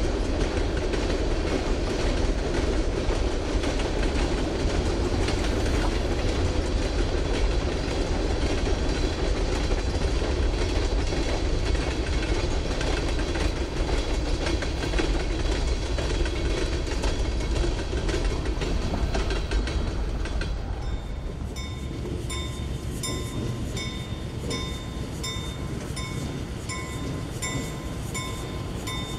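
Freight train rolling past, its wheels clattering over the rail joints. About twenty seconds in, the sound drops in level and a faint, evenly repeating high ringing comes in.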